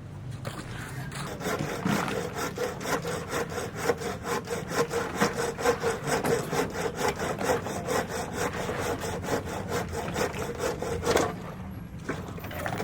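Hand saw cutting with quick, even back-and-forth strokes, starting about a second and a half in and stopping about eleven seconds in.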